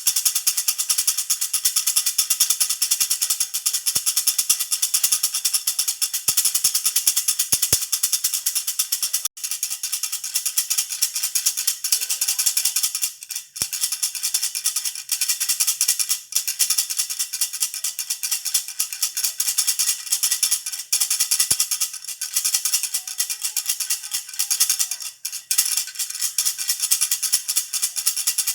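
Baby rattle (jhunjhuna) shaken continuously, a fast, dense, high jingling rattle with short breaks about 9, 13 and 25 seconds in.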